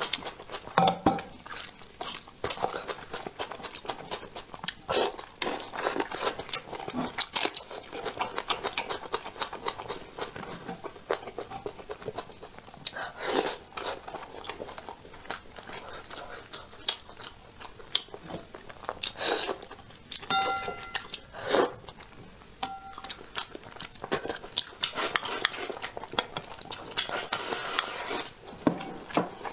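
Close-miked eating: chewing and biting of soft braised fish and meat, with irregular clicks of wooden chopsticks against the plate and bowl.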